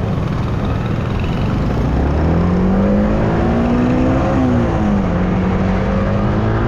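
Yamaha R15 M's single-cylinder engine under way. Its pitch climbs for about two seconds, drops sharply as it shifts up about four seconds in, then runs steady, all under loud wind and road rumble.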